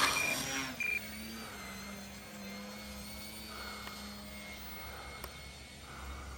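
Electric brushless motor and propeller of an E-Flite Eratix 3D flat foam RC plane whining at high throttle. It is loud for the first second, then drops suddenly to a fainter, steady whine.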